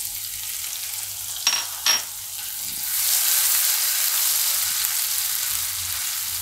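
Grated ginger and spices sizzling in hot oil in a non-stick kadai during a tempering, with two sharp clicks about a second and a half in. From about three seconds the sizzle grows louder as a silicone spatula stirs the mix.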